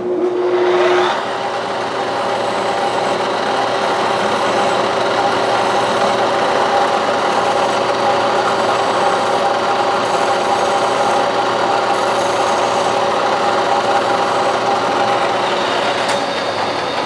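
1967–68 Clausing Colchester 1340 metal lathe running at 1140 RPM in the high range, with a hand file rasping against the spinning steel workpiece to break its edges. The spindle winds up in the first second and begins to wind down at the very end.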